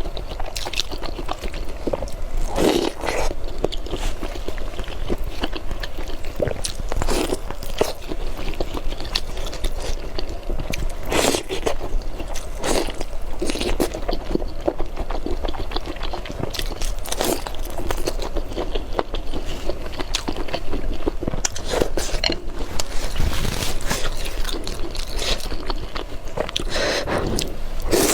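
Close-miked chewing and crunching as a person eats spicy noodles, with irregular crunchy bites throughout.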